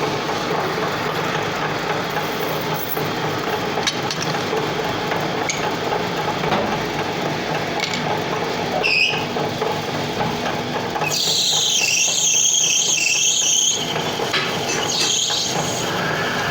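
Lathe running with a steady mechanical whir and hum as it machines metal. About eleven seconds in, a high, wavering squeal of the tool cutting the workpiece sets in and carries on.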